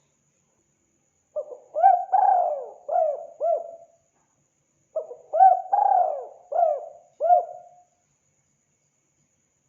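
Spotted dove cooing: two phrases of several rounded coo notes each, the first beginning about a second and a half in and the second about five seconds in, with silence between them.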